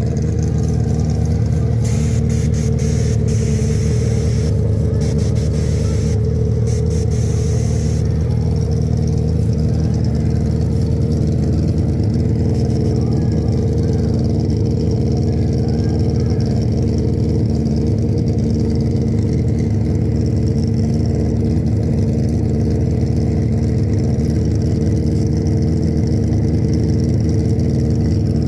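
Grudge-racing drag motorcycle engine running loud and steady, holding one pitch without revving up or down, with a stretch of crackly hiss on top between about 2 and 8 seconds in.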